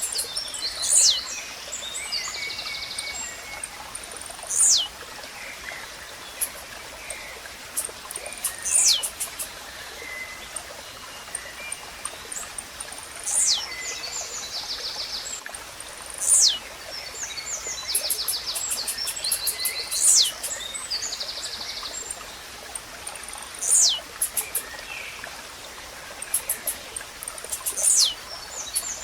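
Blue-black grassquit (tiziu) singing its short, sharply falling song note over and over, about every four seconds, eight times in all. Between the notes other small birds chirp and give buzzy trills over a steady background hiss.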